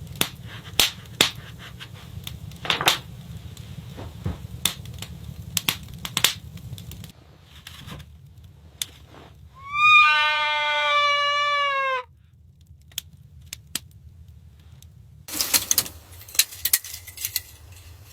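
A single drawn-out bleat, about two seconds long, rising slightly and then falling away at the end, amid scattered clicks and knocks.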